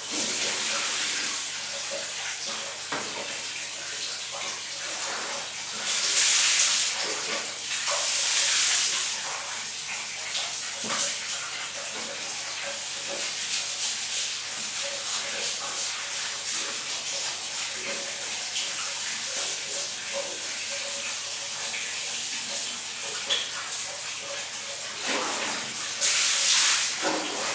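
Water running steadily in a bathroom, with louder gushes three times: about six and eight seconds in, and near the end.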